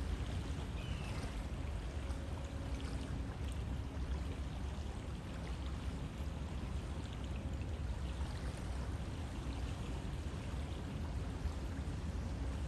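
River water flowing steadily, an even rushing noise with most of its weight in the low end.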